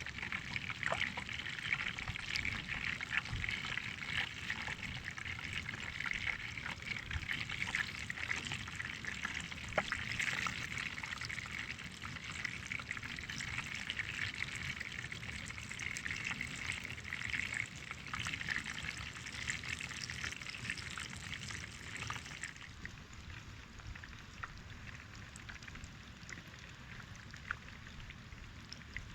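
Hot oil sizzling and crackling as food deep-fries, a steady hiss with many small pops that turns quieter about 22 seconds in.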